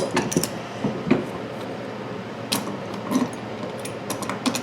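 Light metal clinks and knocks, scattered a few times over the seconds, as the parts of a hand tire bead-breaking tool are handled and set against a lawn tractor tire.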